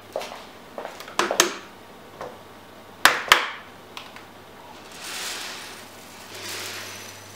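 Everyday handling sounds: a few sharp clicks and knocks, the loudest a close pair about three seconds in, then two soft rushing swells near the end.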